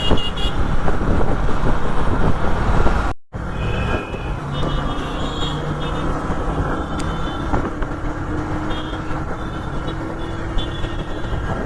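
Dense city road traffic heard from a motorcycle: engines running and horns honking again and again. The sound cuts out abruptly for a moment about three seconds in.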